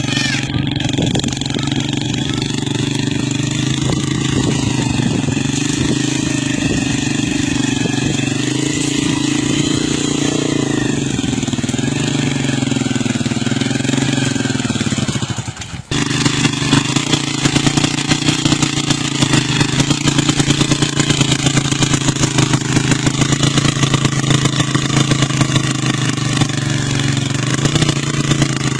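Motorcycle engine running steadily, its pitch sagging and recovering as it works. About 16 seconds in the sound drops out for a moment, then the engine resumes with a fast rattling clatter over it.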